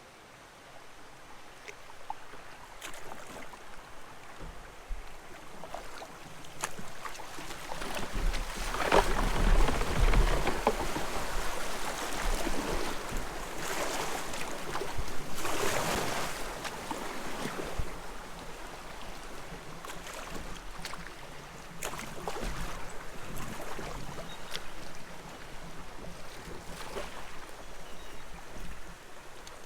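Water washing and splashing around a kayak on a creek, mixed with wind buffeting the microphone. It swells and fades unevenly and is loudest about nine to ten seconds in, with a low rumble at that point.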